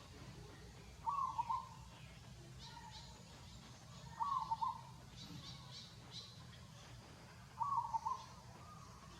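A bird giving the same short, fluttering call three times, about three seconds apart, with faint high chirps from other birds in between.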